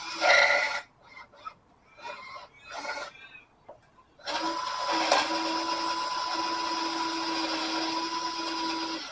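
A few light knocks and handling sounds, then about four seconds in a power drill starts and runs steadily at one speed, drilling out a bolt hole in the engine so it can be tapped for a helicoil.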